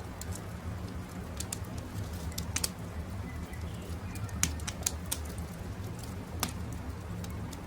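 Wood campfire crackling: irregular sharp pops and snaps, a few of them louder, over a low steady rumble, with faint bird calls in the background.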